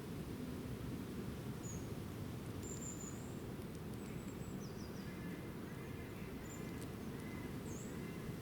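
Small wild birds chirping: short, high chirps scattered through, and a run of repeated lower calls starting about halfway in. A steady low rumble of background noise lies under them.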